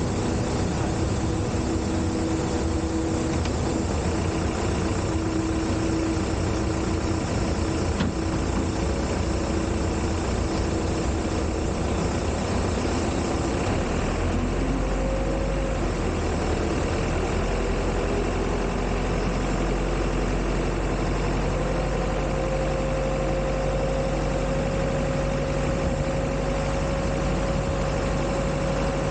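Steady running noise of an Embraer 175 jet airliner and its ramp equipment during pushback: a continuous mechanical hum with held tones. About halfway through the deep rumble and the tones change, and a slowly rising whine sets in.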